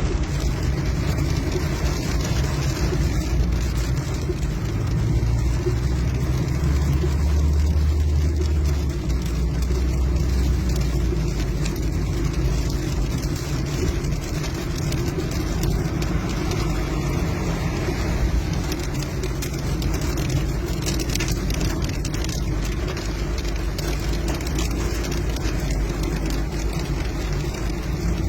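Traffic on a rain-wet street: a steady hiss of car tyres and engines with a deep low rumble.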